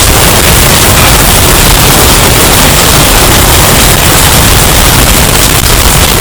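Hurricane wind effect, bass boosted and heavily distorted: a constant, very loud roar of noise with no let-up.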